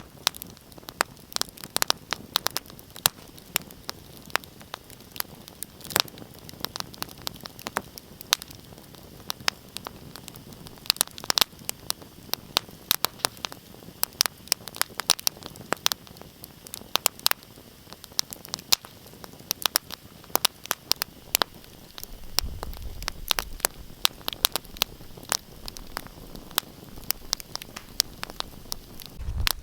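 Wood fire burning in a fireplace, crackling with many irregular sharp pops and snaps over a soft hiss. A low rumble joins in about three quarters of the way through.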